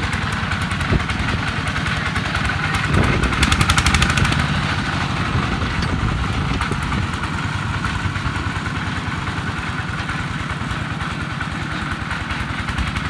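D22 diesel engine of a công nông farm truck running with an even chugging beat, revved up briefly about three seconds in, then settling back.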